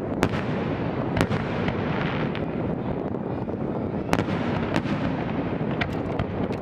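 Aerial fireworks display: a continuous rumble and crackle of bursting shells, with several sharp bangs, the loudest about a second in and about four seconds in.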